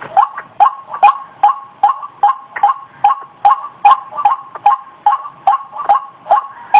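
White-breasted waterhen (ruak-ruak) calling: a two-pitched 'kru-ak' note repeated steadily about two to three times a second.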